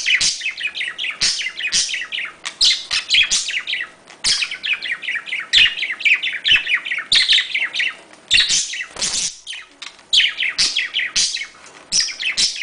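Budgerigars chattering and warbling in fast, dense runs of high chirps, broken by a few short pauses; the chatter of budgie courtship.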